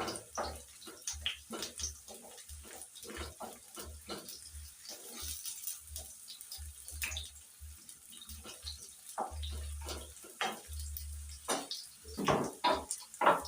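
Chopped onions frying in oil in a pan, with irregular crackles and pops that come at uneven intervals.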